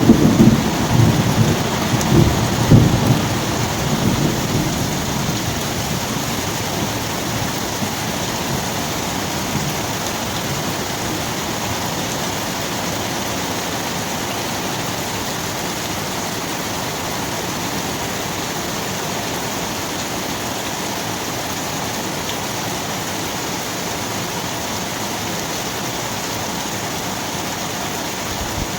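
Steady rain falling, with a roll of thunder rumbling loudly over the first few seconds and dying away.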